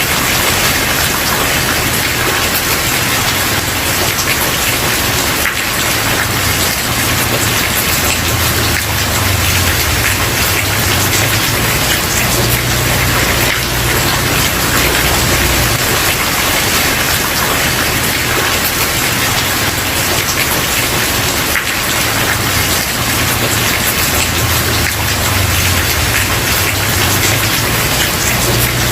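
Steady heavy rain falling on a wooden porch, a dense even hiss of drops with a low rumble underneath that swells and fades.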